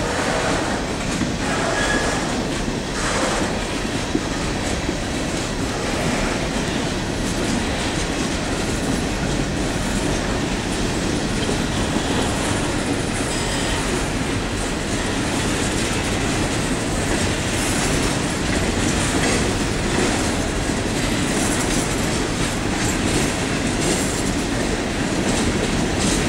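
Empty CSX coal hopper cars rolling past, their steel wheels running on the rails in a steady rumble.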